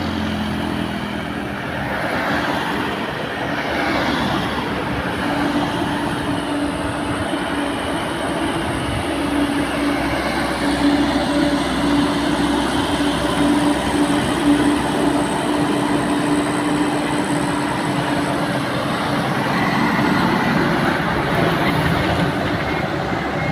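Heavy diesel truck engine labouring up a steep climb in a low gear, a steady drone with a held whine through it.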